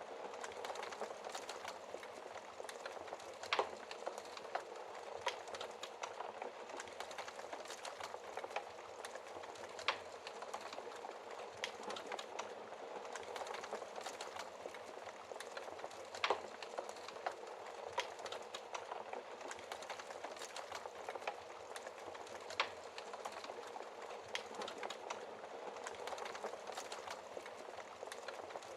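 Wood fire crackling in a fireplace: a steady hiss of small crackles, with four louder pops about six seconds apart.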